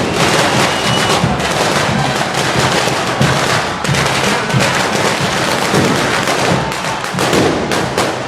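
Firecrackers and bangers going off in a dense, continuous crackle of rapid sharp cracks and bangs.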